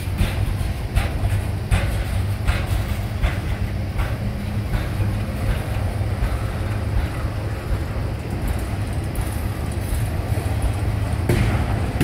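Freight cars of a manifest train rolling past: a steady low rumble of steel wheels on rail, with a regular clickety-clack of wheels crossing rail joints, clearest in the first few seconds.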